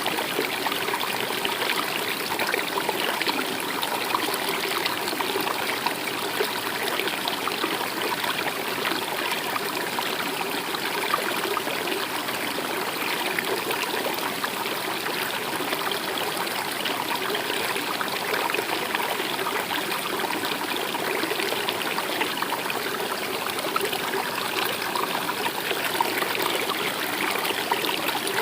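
Steady running water of a stream, a continuous even rush and trickle.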